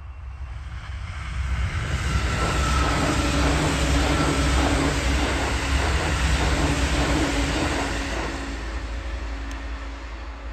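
E657 series electric limited express train passing at speed: its rumble builds, peaks and fades away. At its loudest come a rapid rhythmic clatter of wheels on the rails and a steady motor hum.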